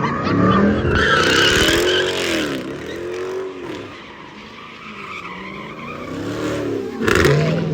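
Car engine revving up and down several times with tyres squealing, loudest about a second in and again near the end.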